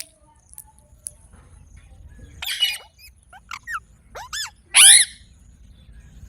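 Pet Indian ringneck parrot giving a string of short chirps and squawks, with whistled notes that bend up and down. The loudest is a harsh screech about five seconds in.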